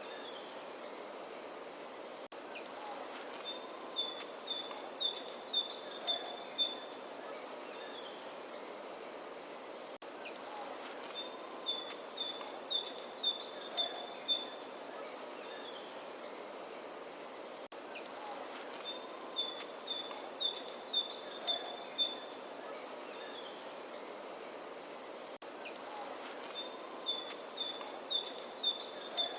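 A songbird singing the same song four times, about every eight seconds: each starts with a quick high descending run and goes on into a string of rapid two-note phrases. A faint steady outdoor hiss lies underneath.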